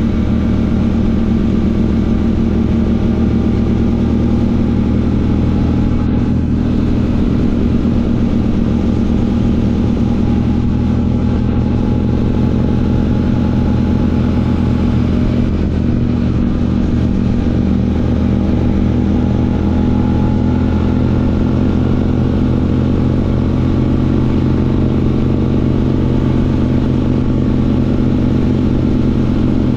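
Royal Enfield Classic 650's parallel-twin engine running through an aftermarket Ngage exhaust while the motorcycle is ridden, holding a steady engine speed with only small rises and falls.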